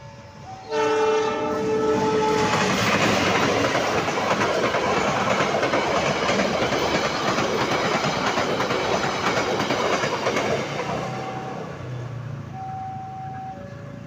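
A train sounds its horn about a second in, a chord held for about two seconds, then passes with loud rail noise and wheel clatter that fades after about ten seconds. A warning alarm alternating between two tones is heard before the horn and again near the end.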